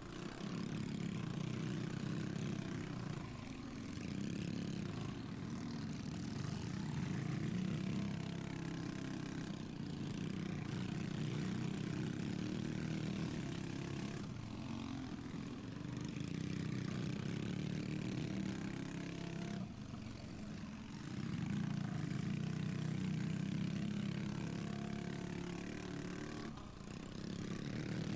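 Minibike engine racing flat out, its buzzy note dropping away briefly five times as the throttle is eased off, then climbing back up.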